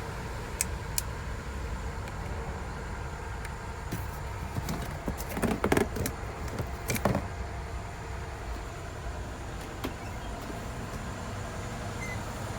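Steady low hum of a running vehicle, with two sharp clicks near the start and a clatter of knocks around the middle.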